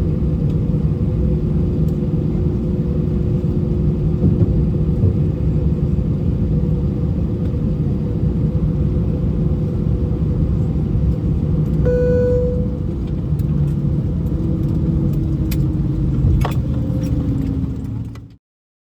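Cabin noise inside an Airbus A319 after landing: a steady rumble of engines and airflow with a low hum. There is a short pitched tone about twelve seconds in, and a hum falls slowly in pitch near the end before the sound cuts off.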